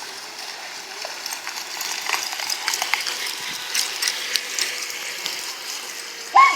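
Irregular light clicks and rattles over a faint steady hiss, then a dog's short, high-pitched yelp or whine near the end.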